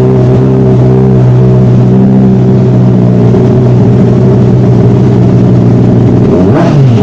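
Sportbike engine running loud through a new aftermarket exhaust, held at a steady speed, then the revs dip and pick back up just before the end.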